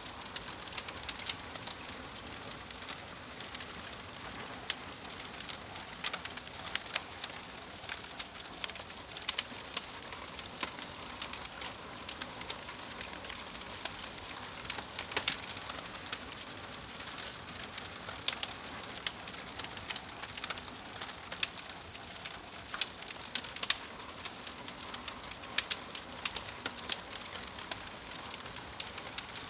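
Fire crackling: irregular sharp pops and snaps, several a second, over a steady soft hiss.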